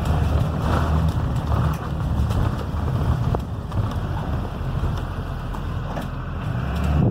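Cummins B6.7 diesel engine of a Blue Bird Vision school bus running steadily under way, with road noise, heard while driving.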